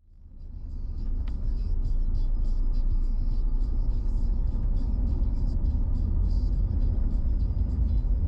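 Steady low rumble of a car driving, engine and road noise, fading in over about the first second.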